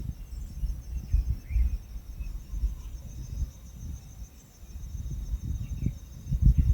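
Insects chirring steadily in a fast pulsing, cricket-like trill over an uneven low rumble, with a few faint short chirps.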